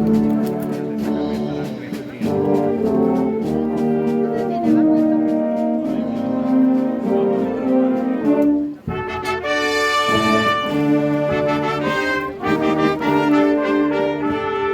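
Brass band playing a slow Holy Week procession march: held chords of trumpets and trombones, with percussion strokes in the first couple of seconds and a brief break about nine seconds in before a new chord enters.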